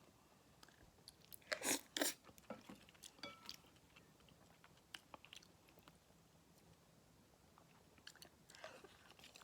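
Close chewing and mouth sounds of someone eating ramen noodles: a few loud wet smacks about a second and a half to two seconds in, softer chewing after, and another cluster near the end.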